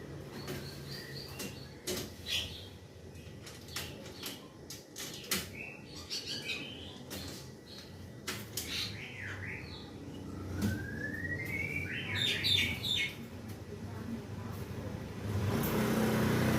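Small birds chirping, including one rising chirp a little past the middle, among many short sharp clicks and taps. A louder steady noise comes in near the end.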